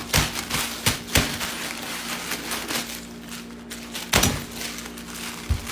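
Packs of instant ramen being handled and picked through: a few sharp clicks and knocks over light rustling of the wrappers, with a low thud near the end.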